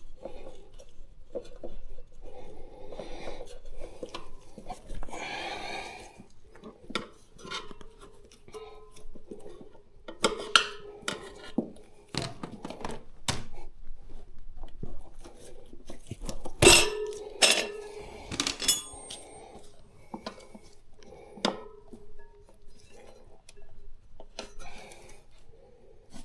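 Steel tyre levers clinking and knocking against a motorcycle wheel rim, with scraping as the tyre bead is worked over the rim edge. The clicks come irregularly, the loudest a little past the middle.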